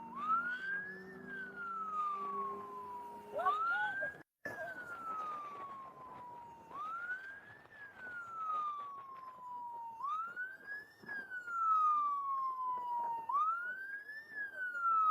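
Police motorcycle siren on wail, its pitch rising for about a second and falling for about two, over and over about every three seconds. It cuts out for a moment about four seconds in.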